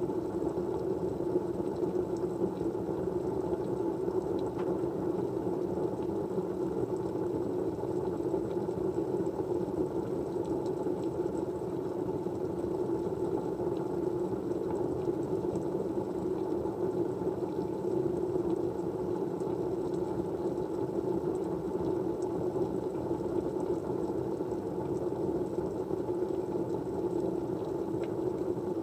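Steady white-noise background, an even low rushing hum that does not change, with a few faint ticks over it.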